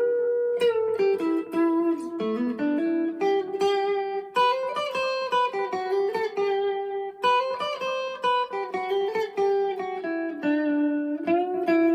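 Electric guitar played clean, the overdrive switched off, on a split-coil pickup setting: picked notes and arpeggiated chords ringing into each other.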